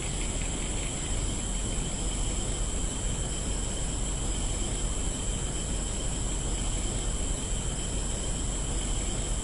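Insects shrilling steadily in a continuous high-pitched drone at two pitches, over an even low rumble of background noise.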